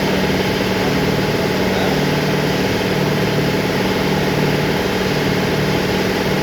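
An engine running steadily at idle, a constant, unchanging hum.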